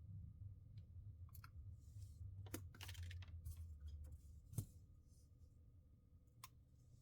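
Faint clicks and taps of a phone's parts and small tools being handled during disassembly, the sharpest tap about four and a half seconds in, over a low hum that fades away soon after.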